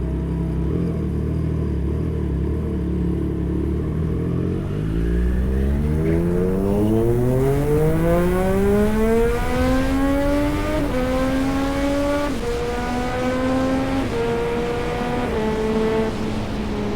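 Triumph Street Triple 765 RS's inline three-cylinder engine running at low revs for about four seconds, then accelerating: the pitch climbs steadily for about six seconds, then the bike shifts up through the gears, the pitch dropping at each of several quick shifts.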